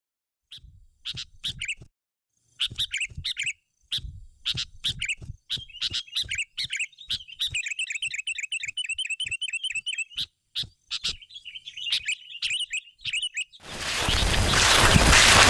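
Birds chirping and twittering in short phrases, with a rapid trill of repeated notes in the middle. Near the end a loud, even rushing noise starts and takes over.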